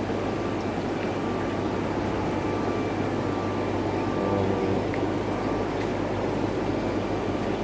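Steady mechanical hum with a rushing noise, unchanging throughout, with a faint steady whine above it.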